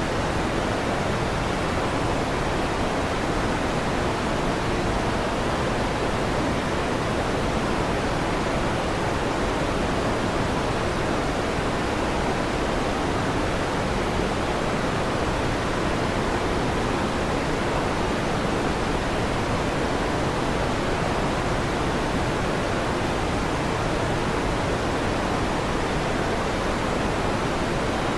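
Electric fan running steadily: an even, unbroken rushing noise with no thunder claps or rumbles.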